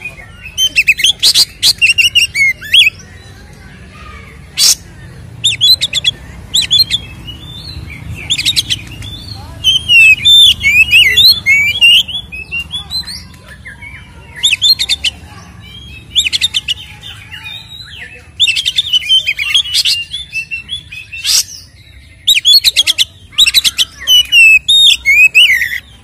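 Oriental magpie-robin (kacer) singing loudly in repeated bursts of quick, varied whistles and chattering notes, with short pauses between phrases.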